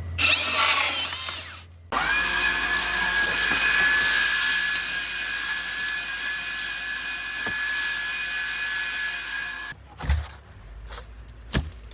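A small electric motor spins up about two seconds in and runs with a steady whine for roughly eight seconds, then cuts off. A few sharp knocks follow near the end.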